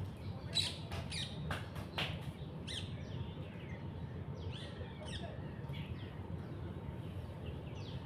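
Several wild birds calling: short, sharp chirps and calls, loudest in the first three seconds, then a quicker run of fainter chirps, over a steady low background rumble.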